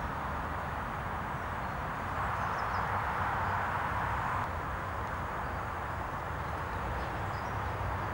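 Steady rush of highway traffic, with a few faint bird chirps.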